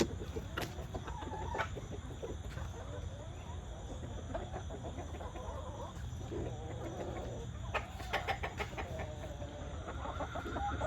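A flock of backyard chickens clucking and calling while they feed, with a quick run of sharp clicks about eight seconds in.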